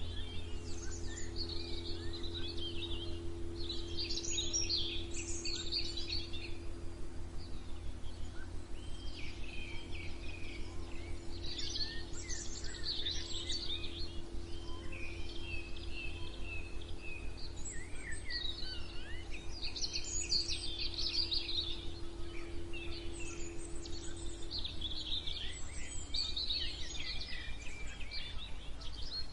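Several songbirds singing and chirping in overlapping phrases, over a steady low rumble and a low hum that fades out near the end.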